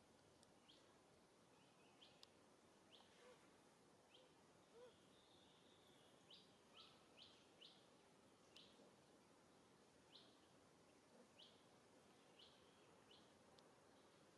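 Near silence with faint hiss, over which a bird gives short, high, falling chirps, repeated every second or so and sometimes in quick runs.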